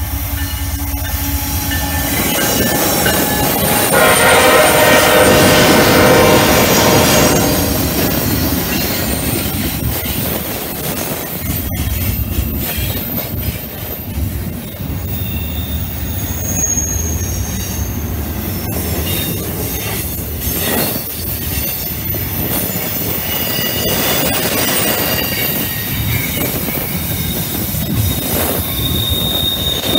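BNSF diesel locomotives passing with a horn blast of about three seconds, beginning about four seconds in, followed by a double-stack intermodal train's well cars rolling by: a steady rumble, clicks over rail joints and high wheel squeal on the curve.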